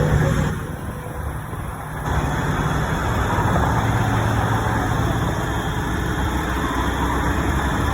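A motor running steadily with a low hum; it drops in level about half a second in and comes back up about two seconds in.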